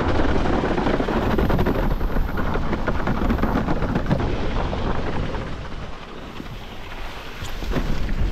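Strong wind buffeting the microphone over the rush of water under a windsurf board sailing fast in high wind. It eases briefly a little past the middle, then builds again.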